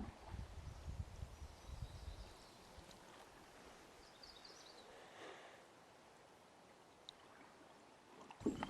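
Quiet outdoor ambience on the water: a low rumble in the first two seconds, a faint steady hiss of water, and a few short high chirps of a small bird around the middle.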